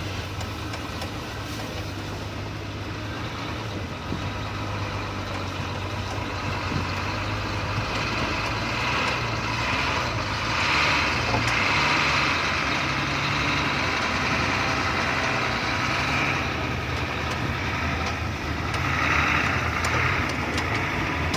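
Diesel engine of a Hino F18 ten-wheel truck loaded with sugarcane, running under load as a steady low drone that slowly grows louder. A rougher, higher noise swells over it about halfway through and again near the end.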